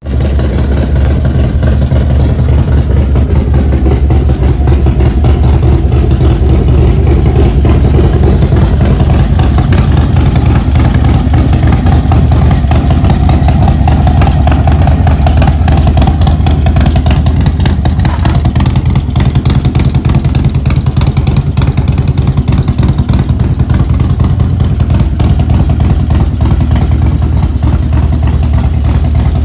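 Harley-Davidson Road Glide's V-twin engine running loudly and steadily, with a rapid pulsing beat. It comes in abruptly at full level.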